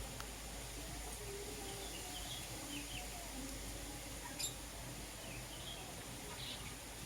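Lovebirds giving a few short, faint, high chirps over a steady background hiss, with one sharp click a little past the middle.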